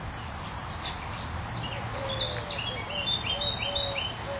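A songbird singing a quick run of short, high chirps, each dropping in pitch, over a lower note repeated steadily underneath.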